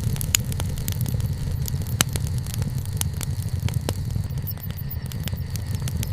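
Campfire crackling, with frequent sharp irregular pops and snaps over a steady low rumble.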